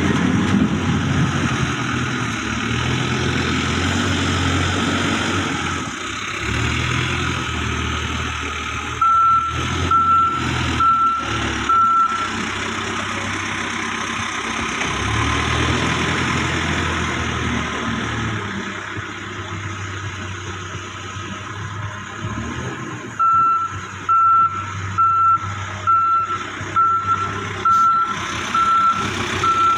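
Diesel engine of heavy machinery running steadily, with a reversing alarm beeping: four beeps about nine seconds in, then regular beeps a little under one a second from about 23 seconds on.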